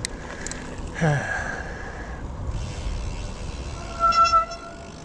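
Wind and tyre noise from a hybrid bicycle on a wet trail, with a few clicks at the start and a short falling tone about a second in. About four seconds in comes a brief high squeal: wet disc brakes squeaking as they are applied.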